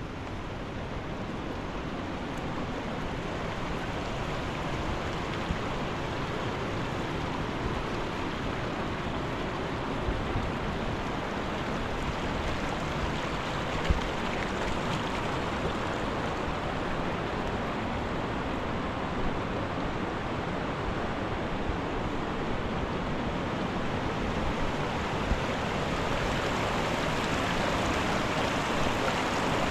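Mountain river rushing: a steady, even rush of flowing water that grows slightly louder near the end, with a few brief knocks over it.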